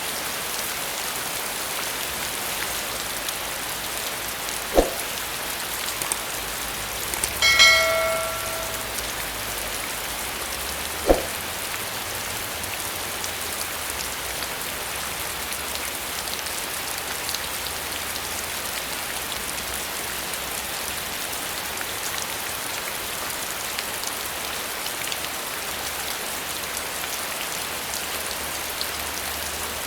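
Steady rain falling, an even hiss throughout. Two heavy drops thud sharply, about five and about eleven seconds in, and a short bell-like metallic ring sounds near eight seconds.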